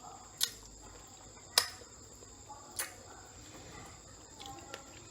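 A faint, steady high-pitched chirring, with three sharp clicks spaced a little over a second apart.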